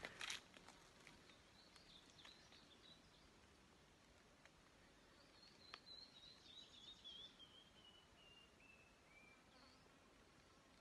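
Near silence with a brief rustle at the start. A faint distant bird sings a series of short notes falling steadily in pitch, after a few faint high chirps earlier on.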